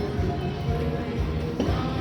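Dancing Drums Explosion slot machine playing its game music with steady pitched tones as the reels spin.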